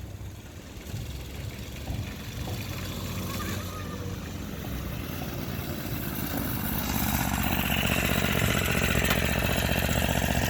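Small motorcycle engine running as the bike is ridden, growing steadily louder until about seven seconds in, then holding at that level.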